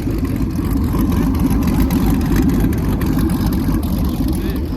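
A car engine's loud, low exhaust rumble, steady with a slight swell in the middle.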